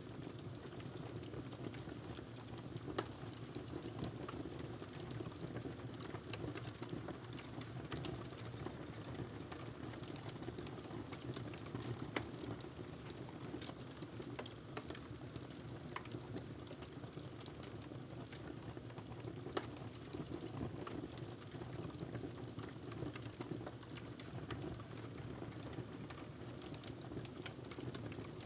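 Wood fire crackling in a fireplace: irregular sharp pops and snaps over a steady low background.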